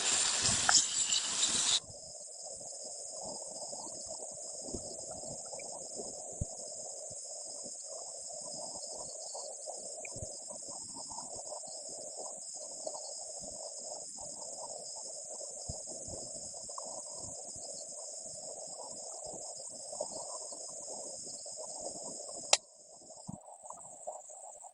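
A steady, high-pitched chorus of crickets or other night insects, with a rougher, lower chorus underneath. A loud hiss fills the first two seconds and cuts off abruptly. A sharp click comes near the end, after which the chorus turns quieter.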